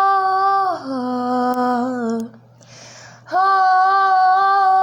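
Young woman's voice singing a wordless "ah" unaccompanied: a held note that steps down in pitch about a second in, a quick breath, then another long held "ah" from about three seconds in.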